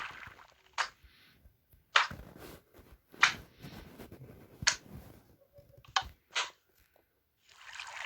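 About six sharp clicks and knocks at irregular intervals, then a steady rushing noise starting near the end.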